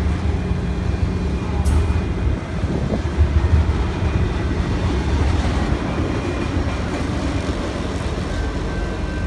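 BNSF intermodal freight train rolling past, its flatcars loaded with highway trailers: a steady, loud low rumble of wheels on rail with clattering from the cars.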